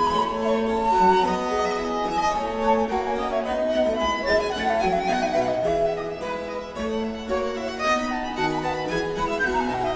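Baroque chamber ensemble playing: recorder and baroque violin carry the upper lines over baroque cello and harpsichord continuo, the bass moving in steady steps from note to note.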